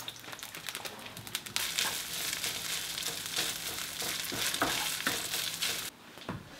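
Food frying in oil in a nonstick pan: a quiet sizzle at first, then, about a second and a half in, a louder, busier sizzle as fried rice is stir-fried with a wooden spatula, with many small ticks. The sizzling stops shortly before the end.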